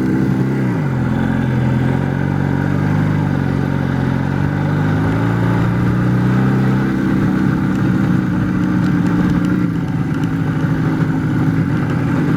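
IZh Jupiter-4 motorcycle's two-stroke twin-cylinder engine running under way. Its note drops about half a second in and steps up to a higher steady pitch about seven seconds in.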